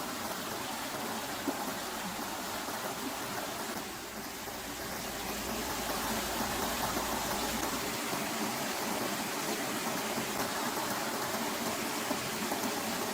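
Steady rushing of water, an even hiss with no distinct events, dipping briefly and then growing a little louder about five seconds in.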